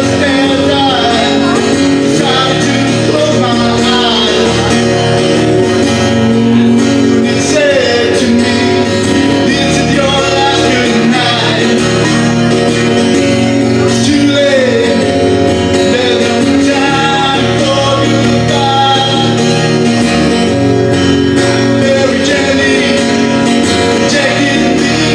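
Live music: a solo guitarist playing, with singing.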